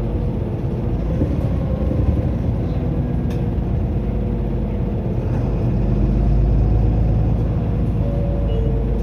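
Interior running sound of a Mitsubishi Fuso Aero Star city bus (LKG-MP37FKF) under way: a steady diesel engine and road rumble, growing a little louder about six seconds in.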